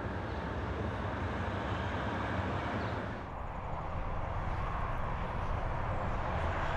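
Heavy truck driving on a highway: a steady engine drone under constant tyre and road noise, dipping briefly about three seconds in.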